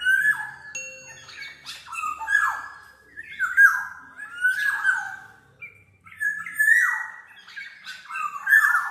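Black-naped oriole (kepodang mas) calling: a run of loud, repeated phrases of falling notes, about one a second.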